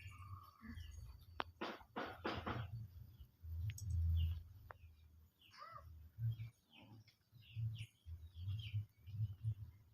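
Small birds chirping with short high calls, over repeated low thumps and rumbles on the microphone. A quick run of sharper rustling or clicking sounds comes about two seconds in.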